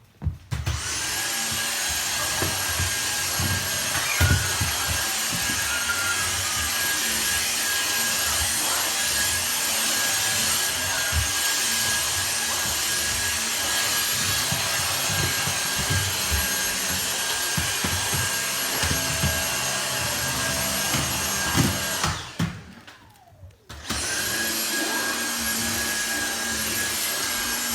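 Household vacuum cleaner running with a steady whine and irregular low bumps. It switches off about 22 seconds in and starts again a second and a half later.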